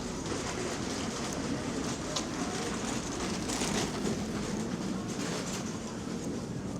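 Steady city street noise: an even low rumble with scattered light clicks.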